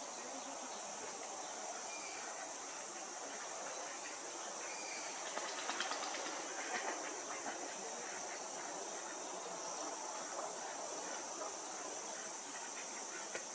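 Steady high-pitched insect chorus, with a few faint short chirps about six seconds in.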